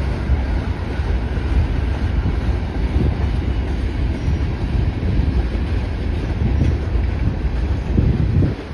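Freight train cars (tank cars and covered hoppers) rolling past: a steady low rumble of steel wheels on rail, with a few louder clacks.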